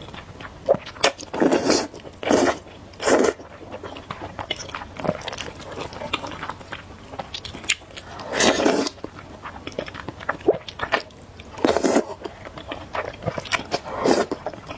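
Close-miked eating of spicy noodles: wet chewing and lip-smacking clicks, broken about six times by louder half-second slurps.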